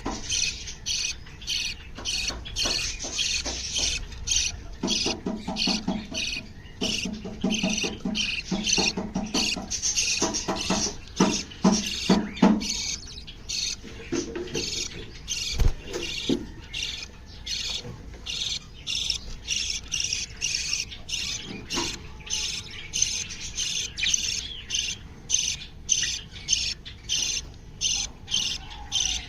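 Aviary birds chirping in quick succession, about two to three sharp, high calls a second, mixed with harsher squawks and some lower-pitched calls.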